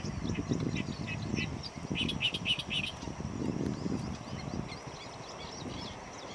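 Small birds chirping and twittering, with a quick run of rapid chirps about two seconds in, over a steady low rumble.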